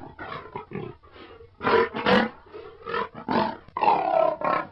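Lion roaring: a series of repeated roars and grunting calls, louder around two seconds in and again toward the end.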